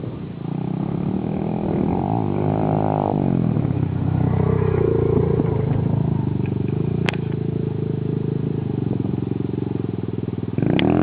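Motorcycle engine running, its revs swinging up and down a couple of seconds in, then rising and getting louder near the end, with one sharp click in the middle.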